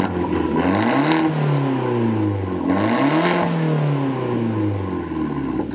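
Fiat 500 Abarth's turbocharged inline four-cylinder revved twice at a standstill, heard at the exhaust. Each time the engine note climbs quickly and then falls back toward idle, the first peak about a second in and the second about three seconds in.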